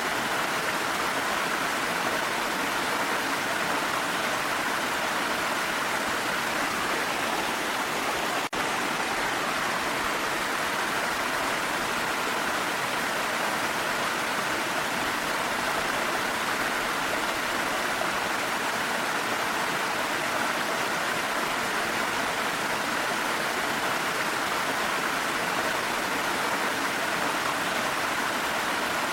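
Waterfall rushing in a steady, unbroken roar of falling water, with one brief click about eight seconds in.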